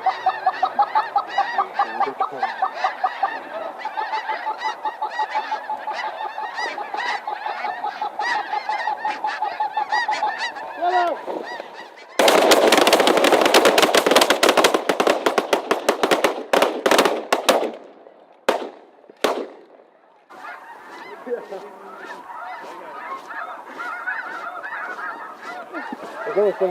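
A flock of snow geese honking steadily. About twelve seconds in, a group of shotguns opens fire at once in a dense, loud volley lasting several seconds, followed by two lone shots, and then the geese are heard calling again.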